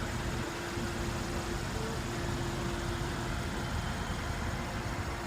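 Steady low rumble of the 2014 Mercedes-Benz SL550's twin-turbocharged 4.7-litre V8 idling, with a constant hum over it.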